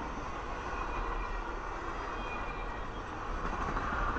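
Circus train passenger cars rolling past on the rails: a steady rumble and rush of steel wheels on track, a little louder near the end.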